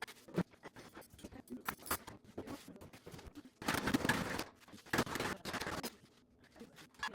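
Kitchen prep sounds: scattered clicks and knocks of utensils and packaging being handled, with two short bursts of rushing noise about four and five seconds in.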